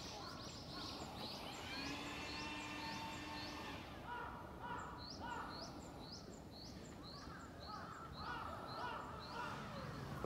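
Small birds chirping repeatedly in short rising notes, about two a second, over steady outdoor background noise.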